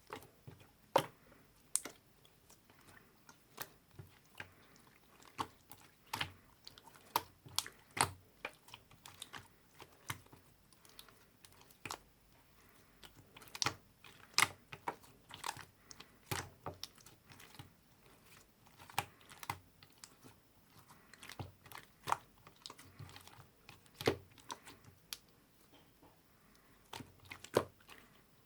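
Irregular sharp clicks and taps from hands working with small craft materials, about one to three a second at uneven spacing.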